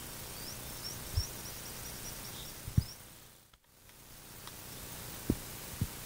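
Outdoor ambience with a steady hiss, and a small bird giving a quick run of short rising chirps during the first half. Four dull low thumps fall through it, and the sound briefly drops away midway.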